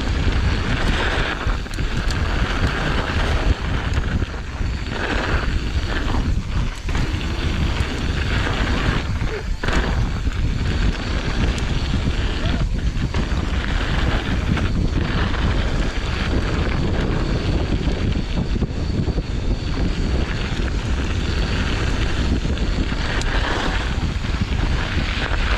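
Wind buffeting a helmet- or body-mounted camera's microphone as a mountain bike rides down a dirt trail, a steady loud rumble with brief dips.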